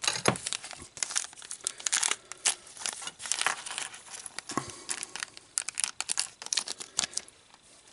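Small plastic parts bag crinkling and tearing as it is handled and opened, in irregular crackles.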